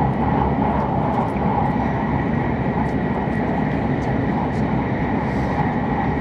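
Steady running noise inside the cabin of an E7-series Shinkansen train: a constant low rumble with a faint steady high tone above it.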